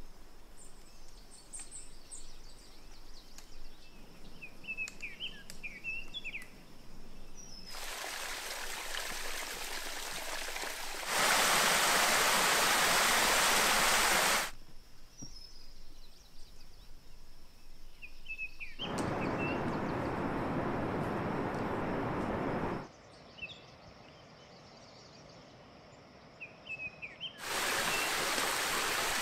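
Forest ambience in a run of abruptly cut sections: quiet stretches with short, high bird chirps, alternating with stretches of steady rushing water. The water is loudest from about 11 to 14 seconds in.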